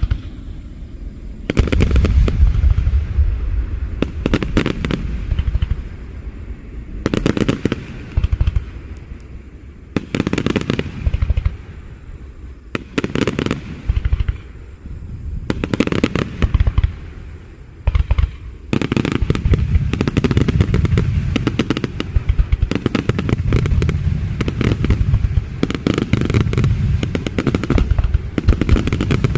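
Aerial fireworks going off in volleys of bangs and crackle with brief lulls between them, then a dense, continuous barrage through the last third.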